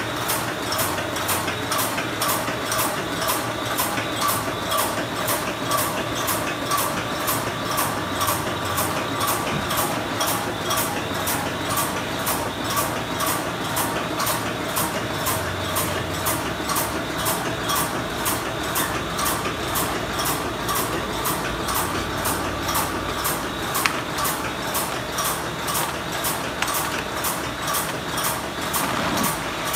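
BOPP film overwrapping machine running, its mechanism clattering in a steady, even rhythm of about two clicks a second.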